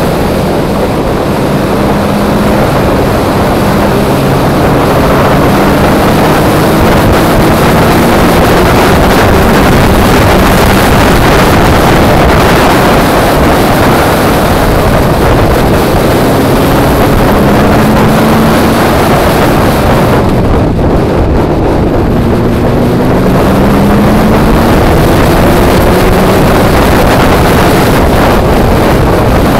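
Peugeot 106 1.6 16v four-cylinder engine working hard at high revs on track, its pitch climbing again and again as it pulls through the gears, under heavy wind and road noise. About two-thirds of the way through it eases off for a moment, then pulls again.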